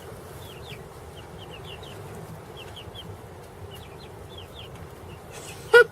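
Chicks peeping, short high chirps in small clusters over a steady background hum. A brief loud cry comes at the very end.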